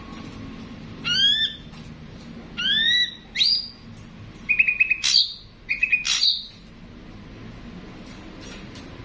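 Ashy drongo calling: a string of loud, upward-sweeping whistled notes mixed with short, rapid stuttering notes, about six calls in the first six and a half seconds.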